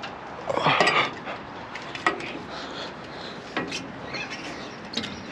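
Knocks, scuffs and clatter of a person clambering up onto a playground roof, with a loud effortful vocal strain from the climber about half a second in.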